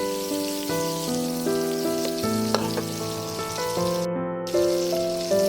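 Small fish frying in oil in a pan, a steady sizzle that drops out briefly about four seconds in, under background music of sustained notes that change every half second or so.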